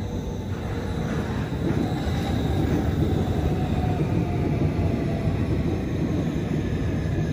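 Seoul Subway Line 1 electric train pulling into the station behind platform screen doors. Its rumble grows louder as it comes in, with a faint whine above it.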